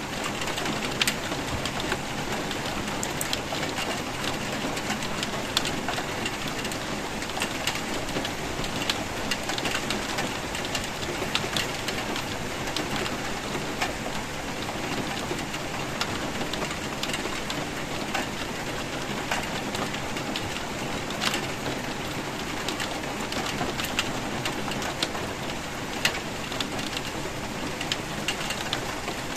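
Steady rainfall hissing, with frequent sharp ticks of individual drops hitting a nearby surface.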